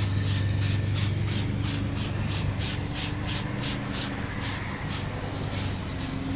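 Trigger spray bottle squirting in quick repeated pumps, about three a second, spraying tire shine onto a truck tire; the pumping stops after about four seconds, with two more squirts near the end.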